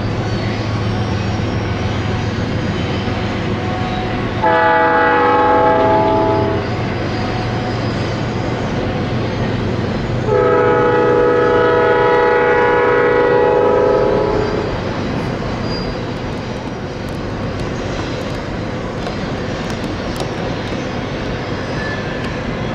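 Freight train rolling by with a steady rumble of wheels on rail, and a diesel locomotive's multi-chime air horn sounding twice: a blast of about two seconds, then a longer one of about four seconds.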